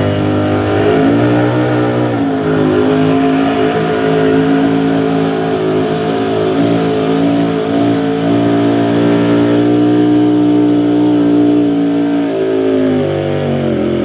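Small-block V8 engine of a 4x4 pulling truck at full throttle dragging the sled, held at high revs with a brief dip about a second in. It falls away near the end as the driver lets off at the end of the pull.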